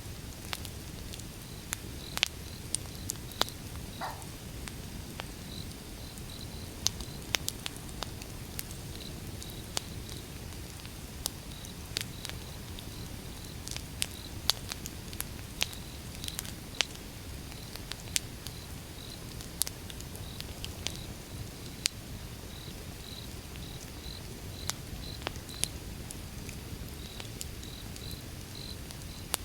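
Wood bonfire burning: a steady low rumble with irregular sharp crackles and pops of the burning logs. About four seconds in there is a short falling whistle.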